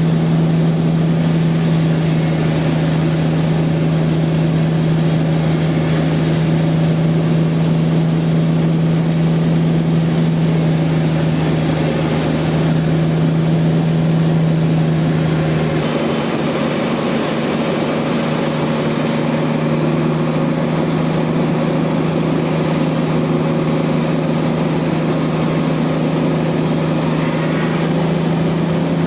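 Sawmill machinery running with a loud, steady drone. About halfway through, the low hum falls away and a higher hiss takes over, and the hum comes back near the end.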